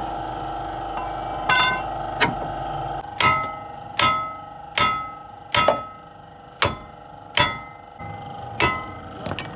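Hammer blows on steel steering parts, about ten ringing metallic strikes roughly one every second, most of them after the first three seconds. A steady hum runs underneath and stops about three seconds in.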